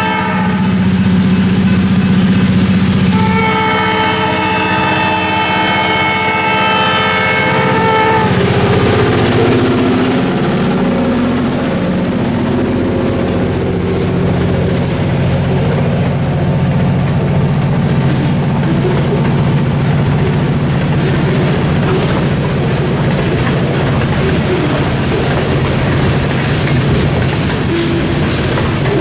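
A freight train led by an EMD SW1500 switcher diesel goes through a grade crossing. The locomotive sounds a long horn blast for the crossing about three seconds in, lasting about five seconds, over the steady hum of its diesel engine. After that comes the rumble and clickety-clack of boxcar wheels rolling over the rail joints.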